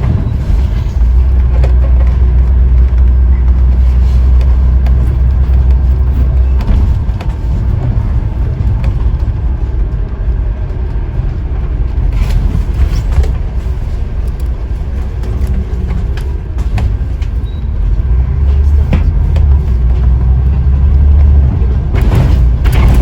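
Scania N94UD double-decker bus heard from inside while under way: a deep diesel engine and road rumble. The rumble swells about a second in and again near the end as the bus pulls, and eases in between.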